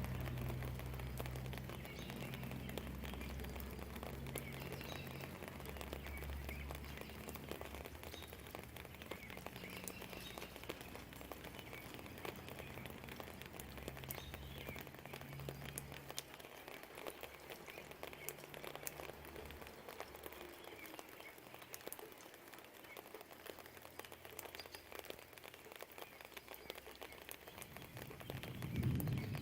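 Light rain dripping and pattering, with a few faint bird chirps. A low distant rumble dies away about halfway through and swells up again near the end.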